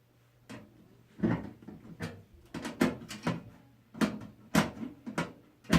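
Irregular knocks and clicks of hard parts being handled in and against a computer case, about a dozen in all, some sharp and loud.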